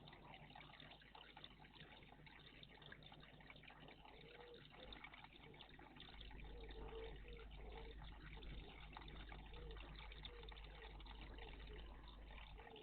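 Faint, steady trickle of water at a garden bird bath, with a low rumble from about six seconds in until near the end.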